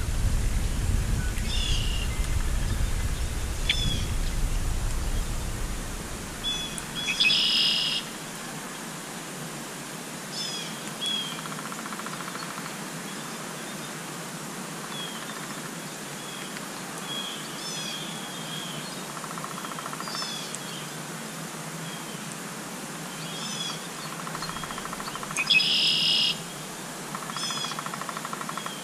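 Small birds chirping and calling repeatedly, with two louder, harsher calls about seven seconds in and near the end. A low rumble, likely wind on the microphone, fades out after the first few seconds.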